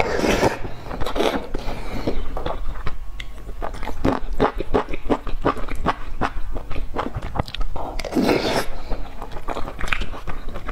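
Close-miked eating: wet chewing and lip-smacking of spoonfuls of soft eggplant rice, a run of quick mouth clicks, with louder bursts as a spoonful goes in at the start and again about eight seconds in.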